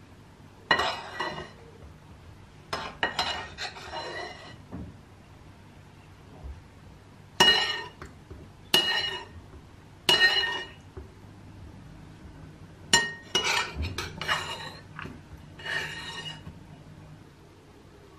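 Dishes and cutlery clinking in a kitchen: about seven separate sharp clinks and short clatters, each ringing briefly at the same pitch, as if one dish is struck over and over.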